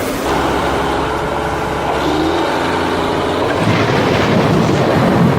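A motor running steadily. It gets louder and busier about three and a half seconds in.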